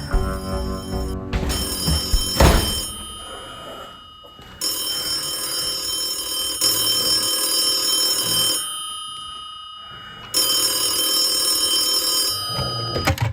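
Background music with a sudden hit about two and a half seconds in, then a telephone ringing: two long rings of about four seconds each with a short pause between.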